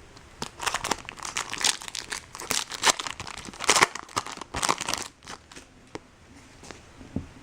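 Crinkling and tearing of a foil trading-card pack wrapper being opened and handled: a dense run of crackles for about five seconds that then dies down to a few faint ticks.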